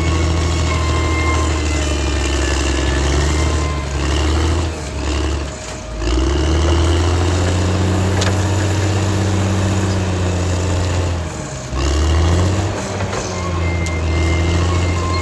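Caterpillar D6R XL bulldozer's diesel engine running under load with a steady high whine over it. The revs and loudness drop about four to six seconds in and pick up again, with a shorter dip near twelve seconds.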